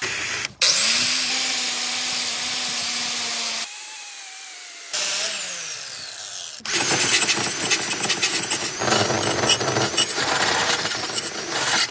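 A power tool's motor spins up and runs at a steady whine for about three seconds, then winds down with a falling pitch. It is followed by a longer stretch of loud, rattling tool noise.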